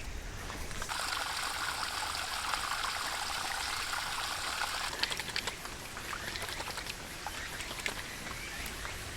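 Water pouring in a steady stream for about four seconds, starting about a second in, then stopping into a few drips and small clicks.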